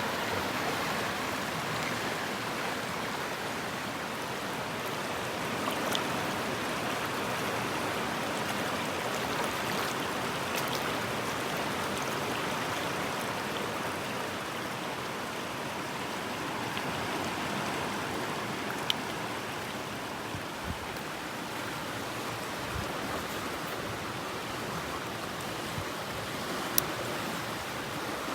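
Mountain stream running, a steady rushing of water, with a few sharp clicks over it.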